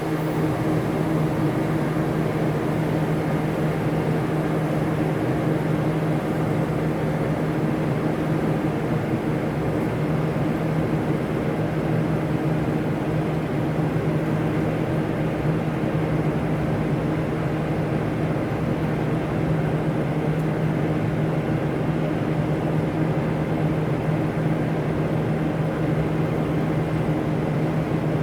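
Heavy machinery running steadily: a constant low hum over an even rumble, with no change in pitch or level.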